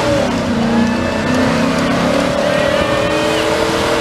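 Engine of a 2006 Chevy truck running hard under load as it pulls the sled down the track. It holds a steady, loud note whose pitch wavers slightly.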